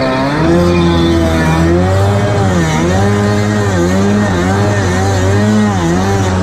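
Two-stroke stand-up jet ski engine running hard, its pitch rising and falling again and again as the throttle is worked.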